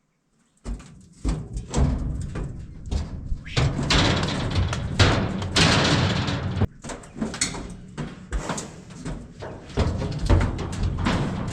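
Cattle being loaded into a truck's stock crate: irregular clattering, knocking and banging of hooves and metal as the animals move up the ramp and into the crate, busiest around the middle.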